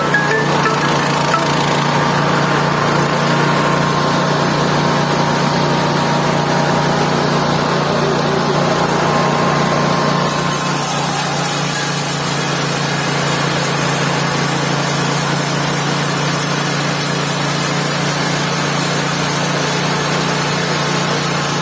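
Engine-driven mobile band sawmill running steadily; about halfway through, a high hiss joins the engine's steady drone.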